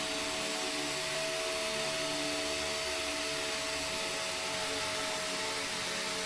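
Vacuum cleaner motor running steadily, a continuous whooshing hiss with a steady whine.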